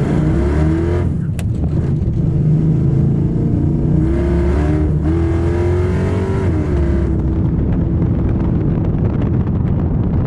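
Chevy C10 drag truck's engine pulling hard, its revs climbing, dipping briefly about a second in, climbing again, then falling off about seven seconds in.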